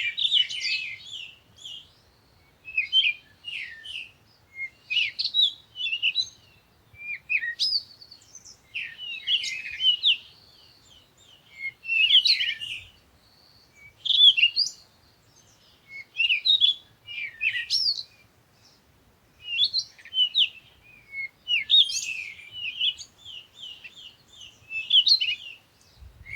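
Bird chirping and twittering in short, high-pitched phrases of about a second each, repeated every second or two with brief pauses between.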